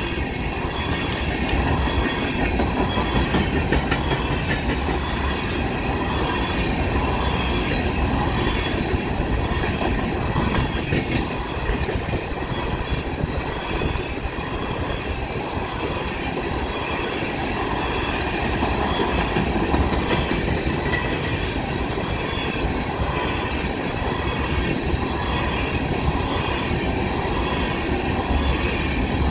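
Long BNSF coal train's hopper cars rolling past at speed: a steady rail rumble with wheels clicking over the rail joints in a repeating pattern, and a faint high ringing from the wheels.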